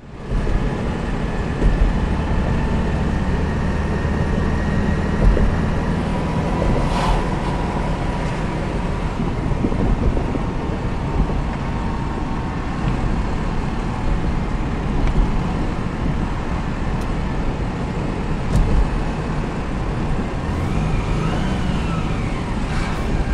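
1999 Subaru Outback's flat-four engine running with a steady low rumble and a faint steady tone riding over it. The owner hears a strange noise from the engine that does not sound like knocking, and fears a spun bearing.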